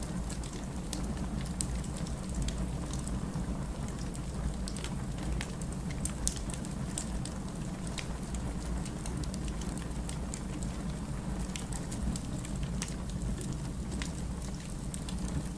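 Wood burning in a fireplace, crackling: a steady low rush with scattered sharp pops and snaps, the loudest about six seconds in.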